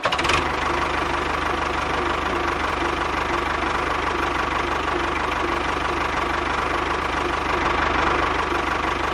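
A small engine running steadily, with a fast, even rattle throughout.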